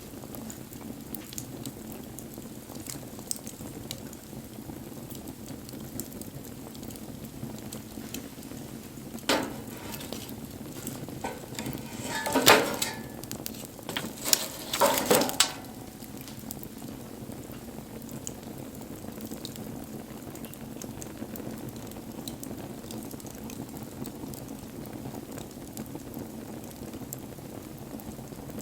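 Wood fire burning with a steady hiss and scattered small crackles and pops. There is a louder bunch of crackles and knocks about nine seconds in, and again between roughly twelve and fifteen seconds in.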